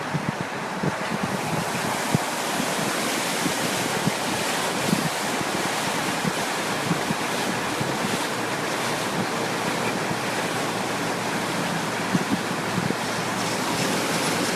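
Steady rushing noise from a moving high-water fuel truck, with no engine note standing out.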